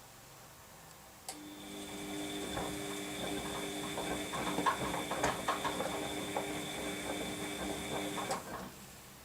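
Washing machine drum motor running for about seven seconds during the wash phase. It starts with a click about a second in and stops near the end, with a steady motor whine under irregular clunks and rattles of the load tumbling.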